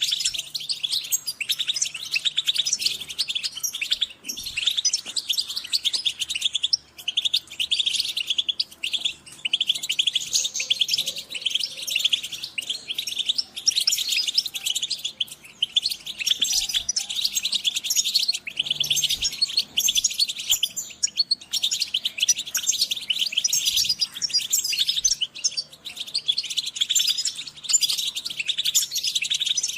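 A group of European goldfinches calling and twittering together: dense, overlapping high chirps without a break.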